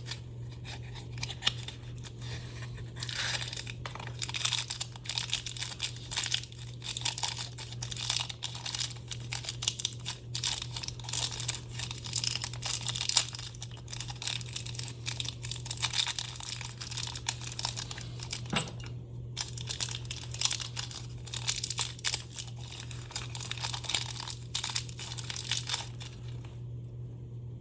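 Packaging crinkling and tearing in irregular crackly bursts as new bearings are unwrapped by hand, over a steady low hum.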